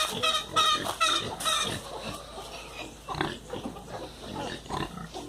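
Farm animal calls: a quick run of pitched calls, about three a second, over the first two seconds, then softer, scattered sounds.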